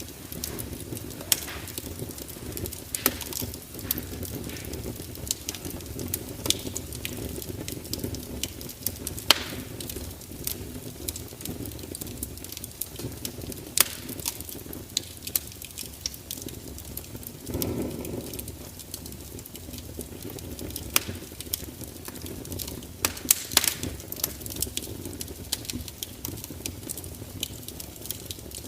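Crackling fire burning with a steady low rumble and irregular sharp pops and snaps. There is a brief louder rush about eighteen seconds in.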